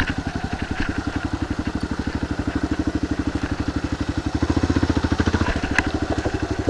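Kawasaki KLR 650's single-cylinder four-stroke engine idling with a steady, even beat. A single sharp click sounds near the end.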